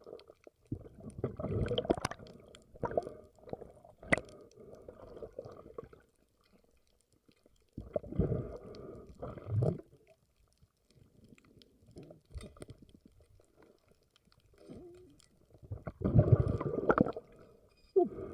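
Muffled water sloshing and bubbling around a spearfisher's camera, coming in several bursts with quieter gaps between, and one sharp click about four seconds in.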